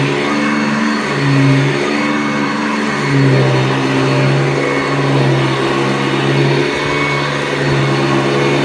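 1985 Hoover Decade 80 upright vacuum cleaner running, its motor and 11-bladed replacement fan giving a steady hum and rush of air, the pitch wavering slightly.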